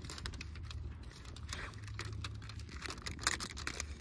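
Aluminium tape being pressed and folded around a foot: an irregular run of small crinkling, crackling clicks over a steady low hum.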